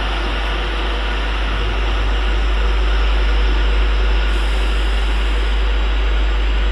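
Class 390 Pendolino electric train running in, a steady rushing noise over a deep rumble, slowly growing louder.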